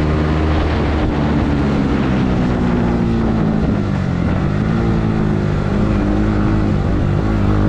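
Yamaha MT-15 motorcycle's single-cylinder engine running under way, with a steady hiss of noise above it. The engine note drops about halfway through, then climbs again.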